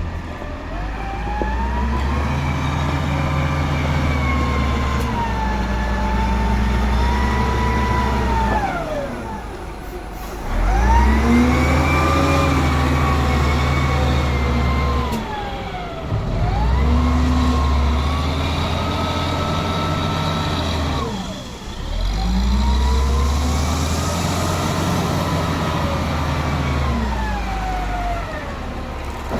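Diesel dump truck engine pulling hard and climbing in pitch, dropping back four times as it shifts up through the gears.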